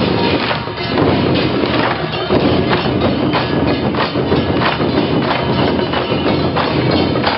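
Loud percussion music: drums and metal percussion struck in a steady, repeating beat of about two strokes a second, as played by a temple procession band.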